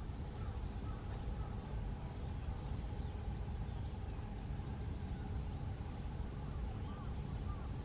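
Steady low outdoor background rumble, with faint short bird calls, a few of them in quick succession near the end.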